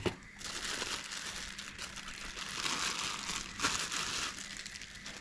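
Packaging being handled and crinkling, in uneven rustling stretches that are loudest around the middle.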